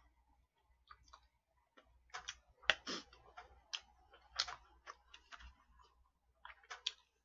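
A person chewing food close to the microphone: irregular short wet clicks and smacks from the mouth, busiest in the middle, with light taps of a spoon against plastic food trays.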